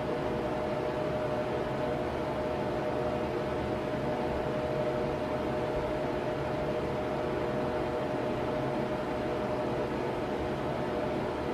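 Electric fan running steadily: an even whoosh of moving air with a steady motor hum.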